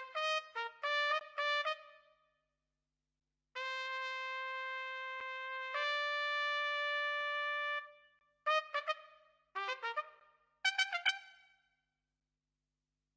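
Sampled trumpet from the Fable Sounds Broadway Lites library, playing a solo line with nothing behind it. It plays a run of quick short notes, then a long held note that steps up a tone partway through, then two more short bursts of quick notes, with silent gaps between the phrases.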